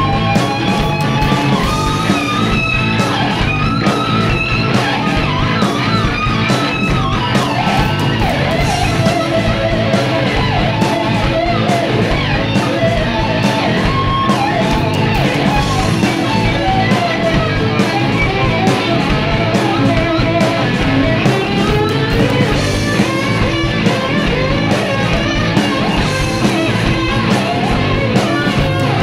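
A live rock band playing an instrumental passage: a lead line that slides and bends in pitch over strummed guitar, bass and steady drum hits.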